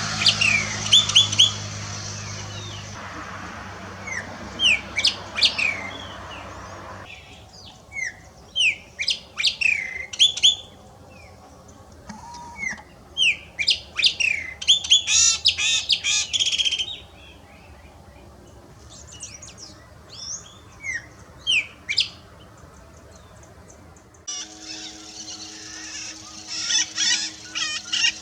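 Wild songbirds singing: phrases of short, sharp whistled notes that glide in pitch, coming in bursts with pauses between them. The background changes abruptly several times.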